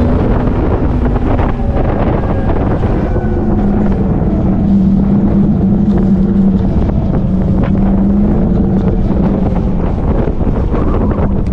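Wind rushing over the microphone while riding an electric motorcycle at speed, with a steady low hum from the bike underneath that fades in and out.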